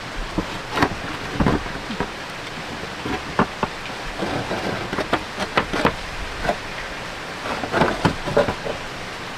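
Steady rain with irregular sharp taps and knocks scattered through it, bunched in clusters about halfway through and again near the end.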